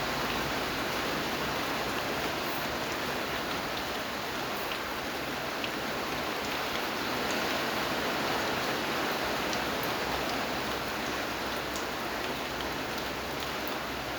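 Steady rain falling, an even hiss with a few faint separate drop ticks.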